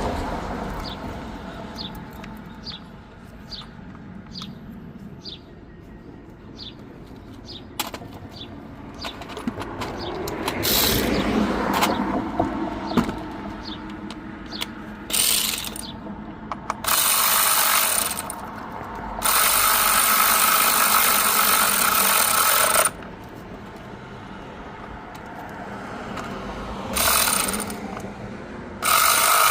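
Tool work on a car engine during spark plug and coil pack replacement: a run of even clicks, about two a second, like a hand ratchet turning, then clatter, then several bursts of a power tool running for a second to a few seconds each, starting and stopping abruptly.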